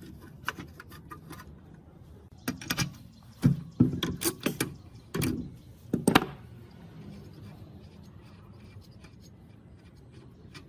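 A run of sharp clicks and knocks, as of tools and parts of the old pump being handled, over the first six seconds. After that only a faint low hum remains.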